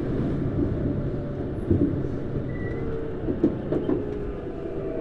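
Tokyu Series 9000 electric train heard from inside its motor car while running: a steady rumble of wheels on rail with a few rail-joint clicks. About halfway through, the whine of its Hitachi GTO-VVVF traction inverter comes in as a steady tone.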